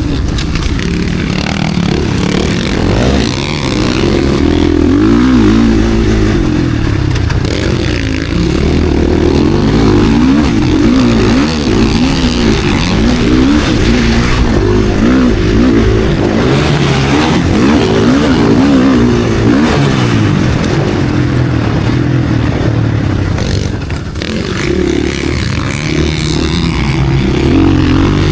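KTM SX-F Factory Edition single-cylinder four-stroke motocross engine running hard under race load, its revs repeatedly rising and falling.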